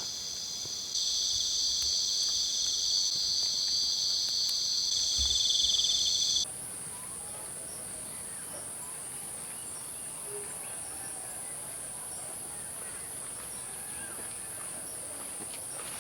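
Jungle insects calling: a steady, high-pitched ringing chorus that gets louder about a second in, then cuts off abruptly a little past six seconds in and gives way to a higher, fast-pulsing trill.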